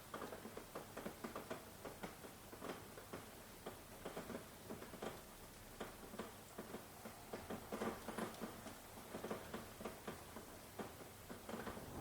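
Rain falling, heard as many separate drops tapping quickly and irregularly over a light hiss.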